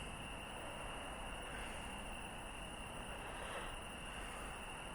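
Steady background ambience with a constant high-pitched whine, unchanging throughout.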